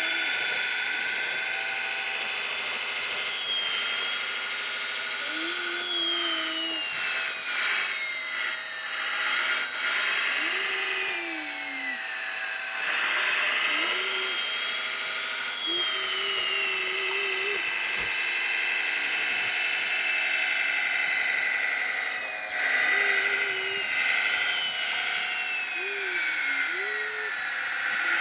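Whine of a radio-controlled scale truck and wheel loader's electric motors and hydraulic pump: several steady high whining tones, with the pitch falling in long glides a few times as motors spin down, and short lower motor hums that rise, hold and drop away in spells of about a second.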